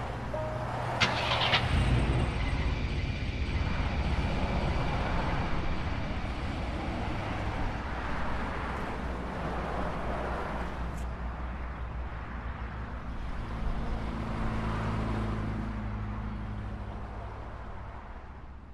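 Car engine started with the ignition key: a brief burst of starter noise about a second in, then the engine catches and runs steadily, fading away near the end.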